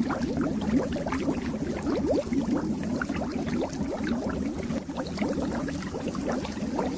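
Fish-tank water bubbling without a break: a dense stream of small bubbles over a low hum.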